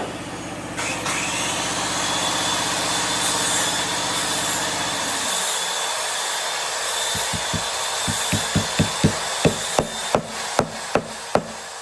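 A machine hums steadily while a power tool whirs with a high whine, starting just under a second in. Both stop about five seconds in. From about seven seconds in, a fast run of sharp knocks on wood follows, roughly three a second, and these knocks are the loudest sounds.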